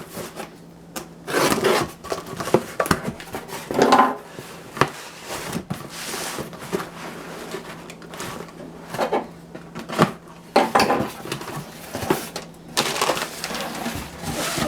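Handling of a boxed toy truck and its cardboard packaging: irregular rustling, scraping and light knocks in several bursts, over a faint steady low hum.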